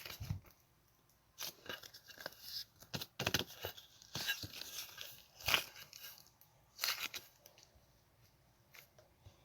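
A soft, sticky material being kneaded and mixed by hand, giving irregular bursts of crackling and tearing, busiest in the middle and fading near the end.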